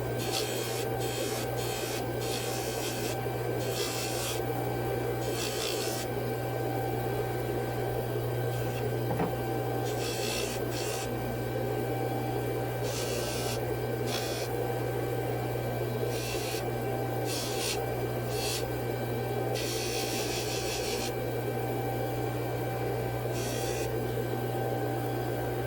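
A steady electric motor hum, with irregular short hissing strokes over it, each half a second to a second and a half long, like metal being worked with a file or an abrasive tool.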